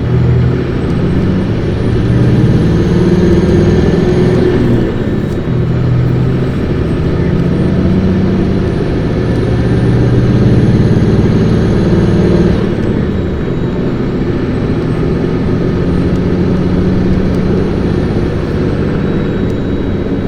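Isuzu Erga city bus's diesel engine pulling hard, heard from inside the cabin. The engine and a high whine climb in pitch, fall away at a gear change about four seconds in, climb again, and drop at another change about two-thirds of the way through.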